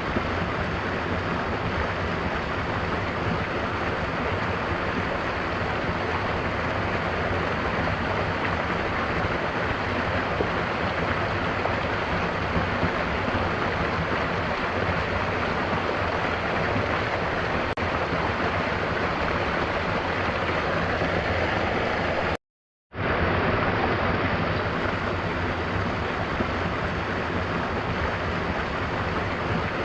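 Mountain waterfall rushing steadily. About three quarters of the way through, the sound drops out to silence for half a second, then resumes.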